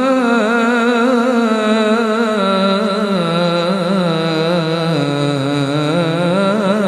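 A solo male voice chanting an Arabic supplication in one long ornamented melisma, the held note stepping lower about a third of the way in and rising again near the end.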